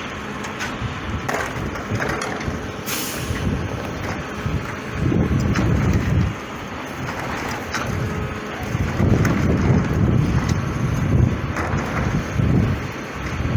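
Heil 5000 rear-loader garbage truck on an International chassis running, its engine rumbling in surges, with a short burst of hissing air about three seconds in.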